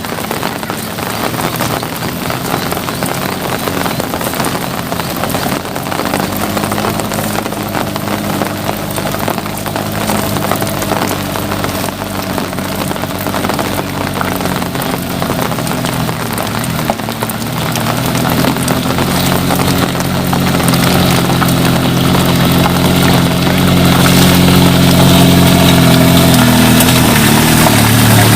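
A motor vehicle's engine running steadily at low revs, growing louder over the last third as it draws closer, over a steady hiss of falling rain.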